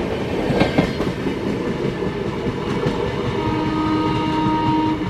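A train running through a station, its wheels clacking over rail joints at first and then settling into a steady rumble. A steady tone of several pitches sounds for about a second and a half near the end.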